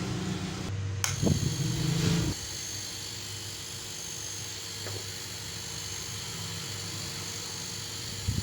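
A steady low electrical hum, as from a running refrigerator compressor, stops abruptly a little over two seconds in, shortly after a click. A faint high whine continues.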